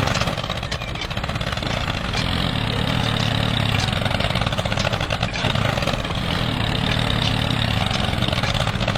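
Mini tractor's small engine running steadily with an even rattle.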